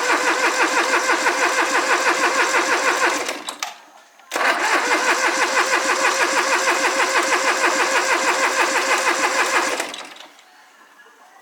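An engine being cranked by its electric starter in two attempts, about four and six seconds long, with an even fast pulse from the compression strokes. It does not catch: each attempt stops abruptly and the engine falls quiet.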